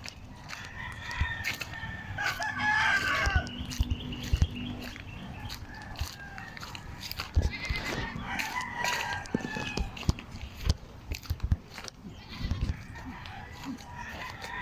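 Farmyard animal calls: a call about two seconds in, another about seven and a half seconds in, and a fainter one near the end, over scattered low thumps and rustling.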